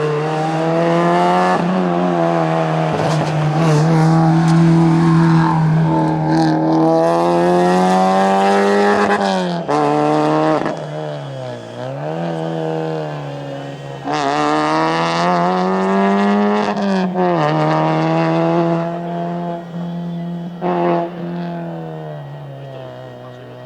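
Rally car engine held at high revs with a steady note. About ten seconds in it drops sharply as the throttle is lifted, then picks up and pulls hard again. The engine fades away near the end.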